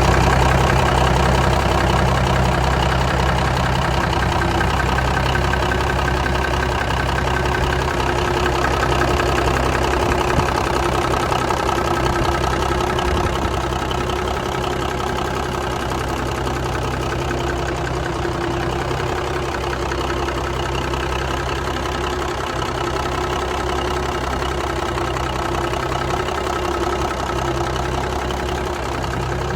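Cummins diesel engine of a 1966 Peterbilt 288 truck idling steadily.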